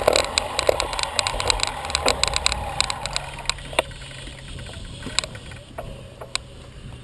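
Bicycle rattling and clicking as it is ridden, over a low rumble of wind and road noise on the microphone; the rattling is dense at first and thins out after about three and a half seconds.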